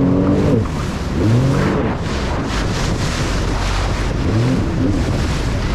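Jet ski engines blipped in short revs, each rising and falling in pitch, three times. Over this runs steady wind buffeting the microphone and the rush of waves.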